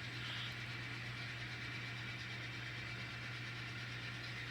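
N scale model locomotive running along the layout track: a faint steady whine over a constant low hum.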